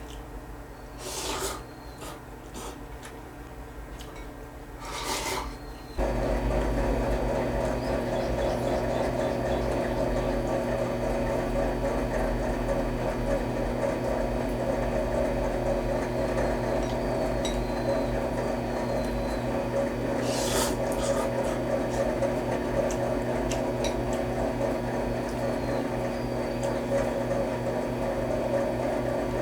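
Two brief scraping sounds, then a steady noisy hum that switches on suddenly about six seconds in.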